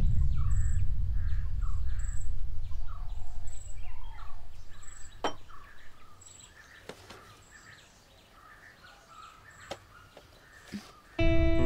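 Small birds chirping over and over, with a low rumble that fades out about halfway through. A few sharp light knocks come at about 5, 7 and 10 seconds as a ceramic mug and a small box are handled, and cello music begins just before the end.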